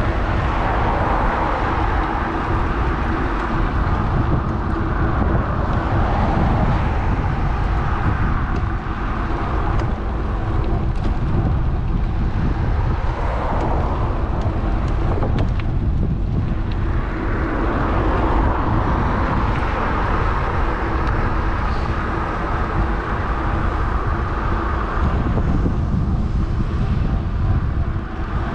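Wind and road noise on an action camera's microphone while riding an electric bike, with a steady low hum throughout. Passing traffic swells and fades a few times.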